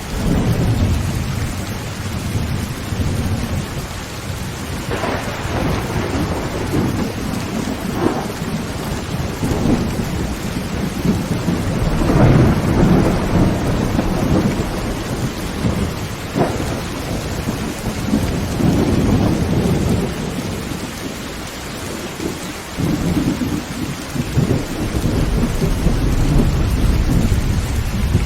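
Heavy rain drumming steadily on a tin roof while thunder rumbles over and over, swelling and fading, with a few sharp cracks among the rumbles.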